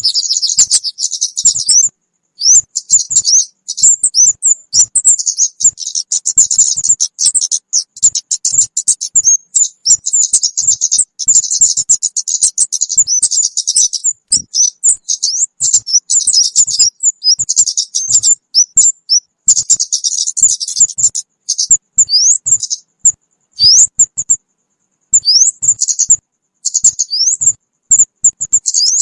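Recorded lure call of the kemade bird: dense, rapid, high-pitched chirping chatter that thins out in the last several seconds into separate rising chirps with short pauses between them.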